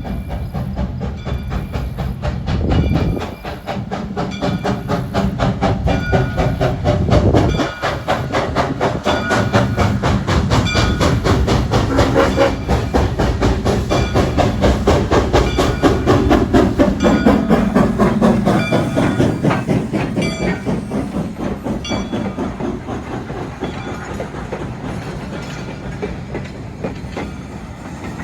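Train passing close by with a rapid, steady rhythmic clatter; its horn or whistle sounds through the first several seconds, and a tone falls in pitch as it goes by.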